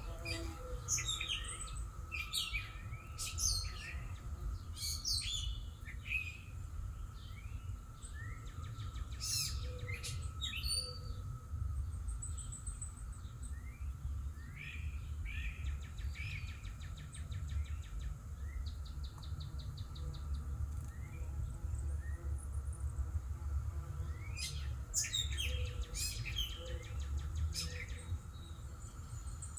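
Backyard songbirds chirping and singing in short phrases, busiest at first and again near the end, with a fast trill in the middle. A steady low rumble runs underneath.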